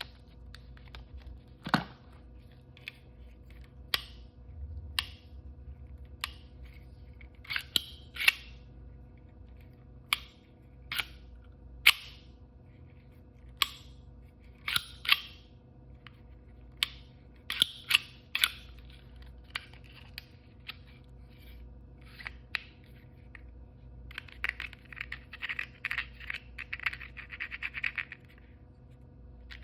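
Toy blind-bag packaging being handled and opened by hand: scattered sharp crinkles, taps and tearing, with a longer run of steady crinkling near the end.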